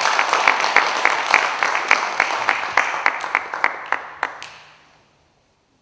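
Audience applauding, with a few sharp claps standing out close by. It fades and dies away about five seconds in.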